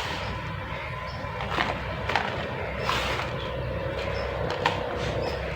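Water poured onto soft wet mud on concrete, a continuous splashing hiss that swells now and then, with a few sharp clicks and cracks as the mud crumbles.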